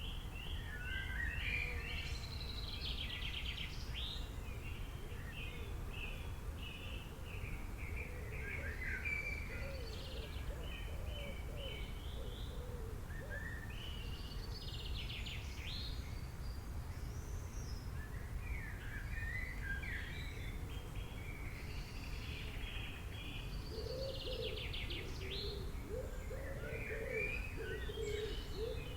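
Several wild birds singing, with quick chirped and trilled phrases repeating throughout and lower warbling calls twice, the second near the end, over a steady low rumble of outdoor background noise.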